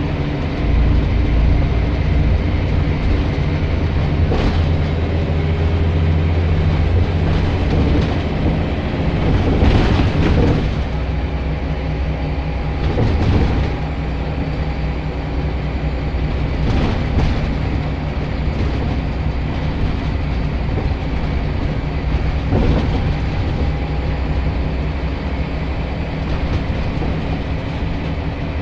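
Scania L94 bus diesel engine and drivetrain heard from on board, running under way on a bus whose gears are sticking. The engine note is loud for the first several seconds and changes about ten seconds in, with a few short knocks or rattles.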